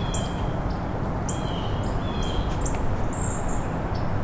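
Small songbirds chirping, a string of short high chirps about once or twice a second, over a steady low background rumble.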